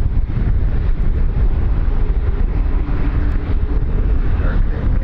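Wind buffeting the microphone outdoors, a steady loud low rumble that rises and falls in small gusts.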